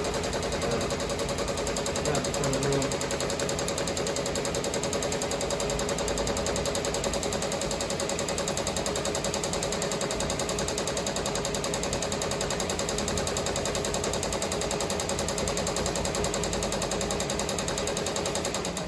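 Ricoma MT-1501 multi-needle embroidery machine stitching at speed, a rapid, even mechanical chatter that runs steadily and stops just at the end.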